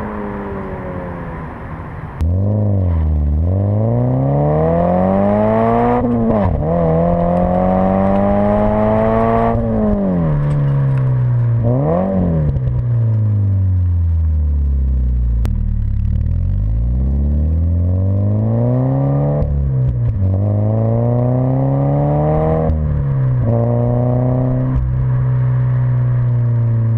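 Scion FR-S / Subaru BRZ 2.0-litre flat-four through a Hooker Blackheart axle-back exhaust, engine speed rising and falling over and over: several climbs in pitch that break off with sudden drops, a short blip, and a long slow fall toward idle around the middle. About two seconds in, the sound jumps louder and changes, as at the start of a new recording.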